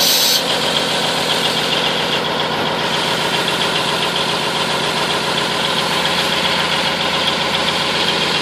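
M931 5-ton military truck's Cummins diesel engine idling steadily while still cold. A short hiss of air right at the start, from the truck's air brake system.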